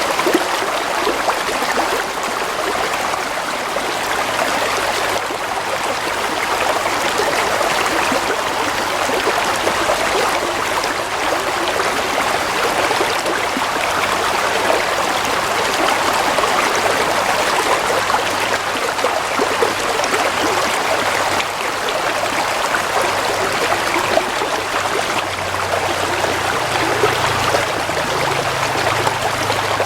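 A stream of water flowing steadily over stones, a continuous babbling and trickling with a faint low rumble beneath it.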